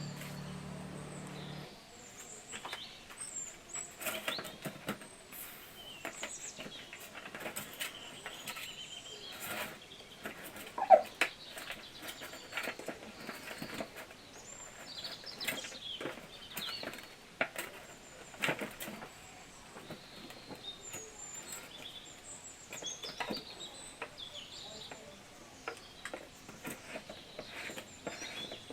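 Small birds chirping outdoors, with scattered light clicks and knocks and one sharper, louder knock about eleven seconds in. A low steady hum cuts off within the first two seconds.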